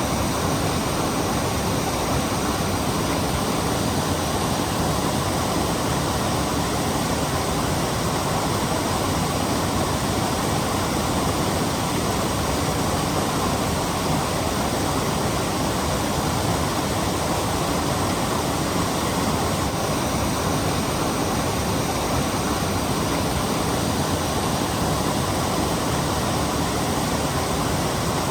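Torc Waterfall's falling water: a steady, unbroken rush.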